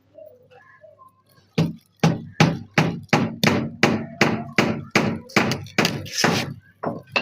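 Repeated blows of a hand tool into wood, about three a second, some fifteen strikes starting about a second and a half in.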